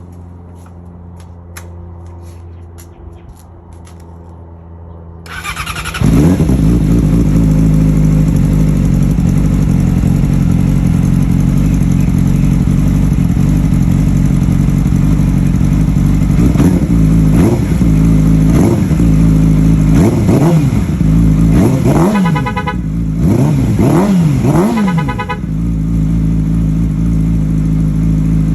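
2008 Yamaha R6 inline-four with a Two Brothers slip-on exhaust and the catalytic converter deleted. After a few faint ticks it starts about five seconds in and idles steadily. In the second half it is blipped up and down several times, then settles back to idle.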